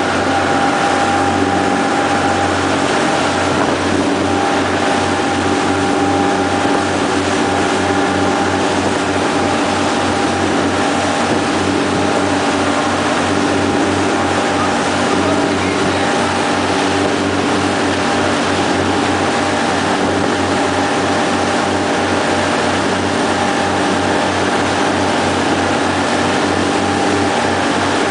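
Motorboat engine running steadily under way, with a constant rush of water over it.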